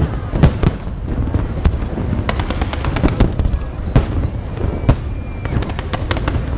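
Fireworks display: bursting shells going off in quick succession, single bangs and rapid clusters of crackles over a steady low rumble.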